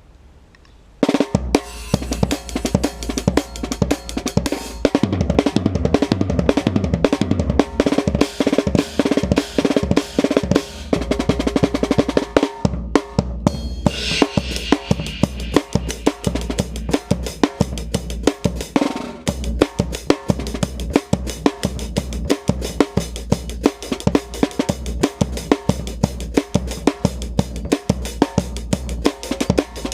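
Drum kit played live over an electronic backing track with a steady deep bass line. Busy snare and kick drum patterns with rolls and cymbals start about a second in.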